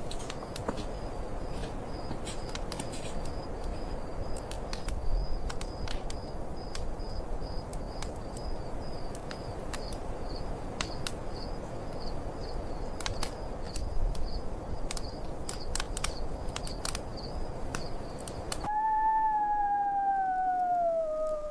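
Steady wind noise with an irregular crackle of a wood fire and a faint high chirping that pulses several times a second. About 19 s in this cuts off suddenly and a single long howl takes over, sliding down in pitch.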